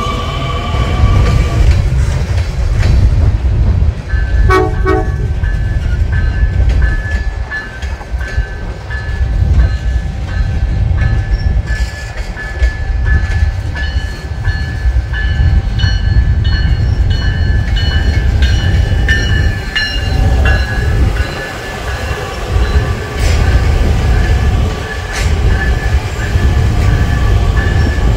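Passenger trains moving through a station: a Metra Electric bilevel electric train and an Amtrak train behind a Siemens Charger locomotive. A loud, steady low rumble of wheels and machinery runs throughout, with a brief tone about four seconds in and a high steady tone held over most of the rest.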